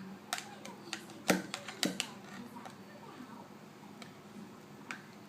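A spoon clicking and tapping against a jelly cup as a child eats, a handful of sharp taps with the loudest about a second in.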